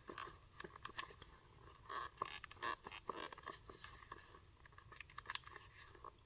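Hands handling a stiff leather knife sheath and small metal items: scattered faint clicks, creaks and scuffs.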